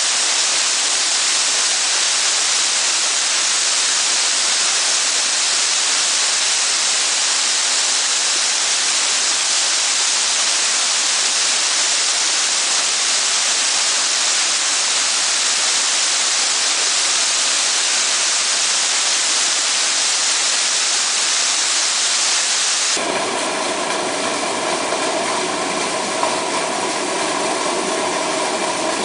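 Waterfall pouring steadily, a loud, even rush of falling water. About three-quarters of the way through it cuts off abruptly and is replaced by a steady hum with several steady tones, like an engine running.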